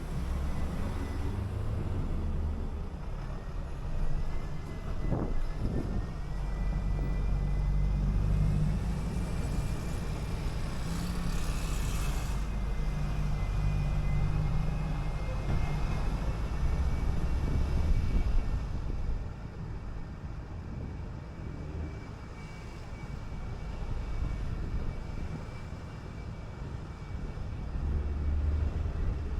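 City bus running along the street: a low engine rumble with road noise and a thin steady whine. It gets quieter about two-thirds of the way through.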